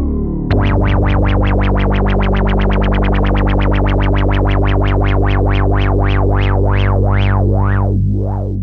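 Tone2 Saurus 4 software analog synthesizer holding one low bass note whose tone repeatedly sweeps bright and dark, a wobbling filter sweep. The wobble starts at about five times a second and slows to about twice a second near the end, each sweep reaching less high.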